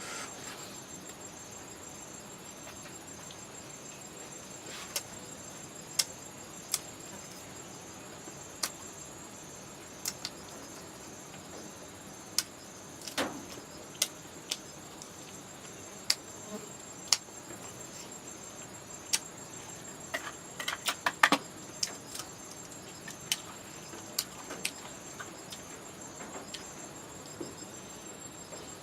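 Insects chirring steadily in a high, evenly pulsing trill, with scattered sharp clicks and snaps over it, a quick cluster of them about twenty seconds in.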